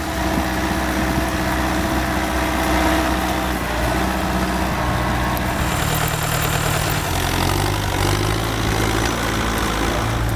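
Heavy vehicle engine running, its note changing about seven seconds in.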